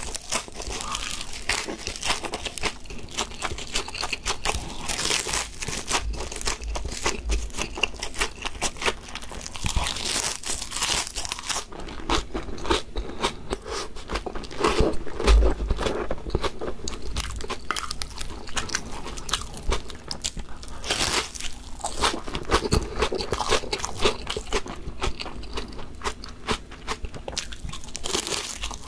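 Close-up crunching and chewing of fried laver seaweed chips (gim-bugak), a dense, irregular run of crisp crackles and clicks.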